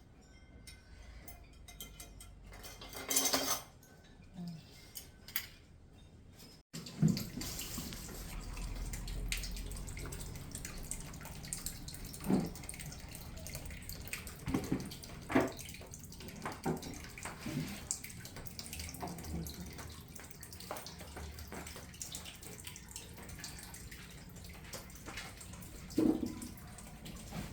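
Water running and splashing, with scattered knocks and clinks of objects being handled. It starts abruptly about seven seconds in, after a quieter stretch with one brief rustle.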